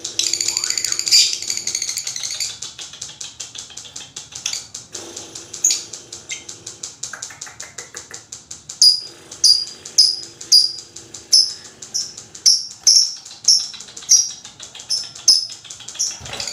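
Lovebird calling: a rapid, high chattering trill for the first couple of seconds, then after a gap a run of sharp, high, falling chirps at about two a second.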